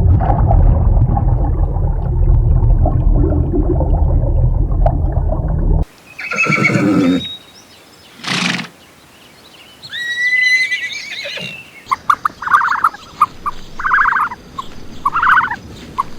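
A string of farm animal sounds from separate short clips. First a loud, low rumbling noise for about six seconds, then a couple of short calls and some chirps, then four or five repeated calls about a second apart near the end.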